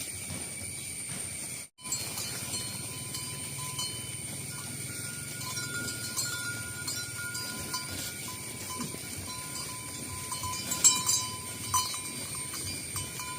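Bells on a herd of cattle clanking and ringing on and off as the animals walk, with a few louder clanks near the end, over a steady high-pitched whine.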